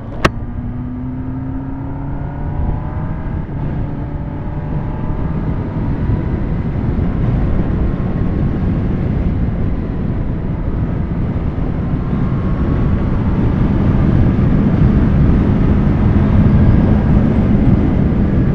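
Kawasaki ZX10R's inline-four engine pulling away, its pitch rising over the first couple of seconds, then carrying on at speed. Rushing wind noise builds as the bike gets faster. There is one sharp click just after the start.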